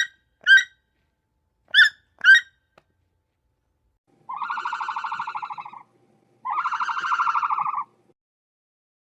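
Animal calls: four short chirps in the first two and a half seconds, then two long, rapidly pulsed calls of about a second and a half each.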